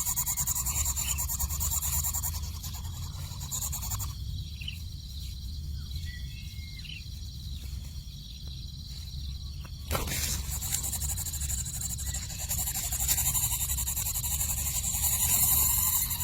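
Coucal nestlings with a steady hiss, a few short faint calls about four to seven seconds in, and a single click about ten seconds in.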